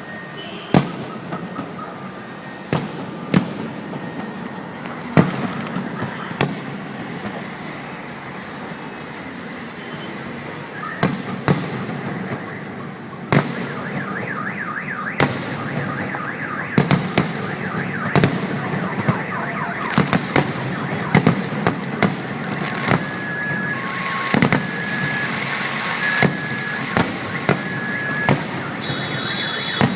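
Fireworks salute going off: irregular sharp bangs over a steady crackling haze, scattered at first and coming thick and fast from about a third of the way in. Near the end a repeating electronic beeping, like a car alarm, sounds through the bangs.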